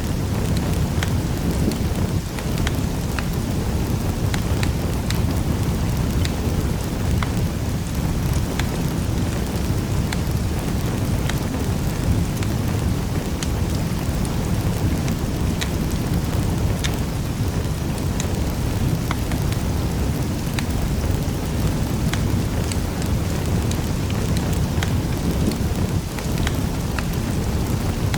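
Fire crackling in a fireplace: a steady low rushing roar with frequent sharp little pops and snaps scattered throughout.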